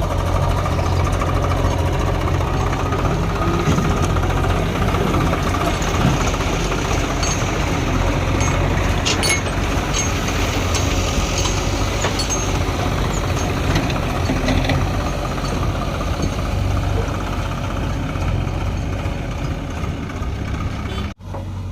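Heavy diesel engine of earth-moving machinery running steadily under load, with a few faint clicks around the middle; the sound cuts out briefly near the end.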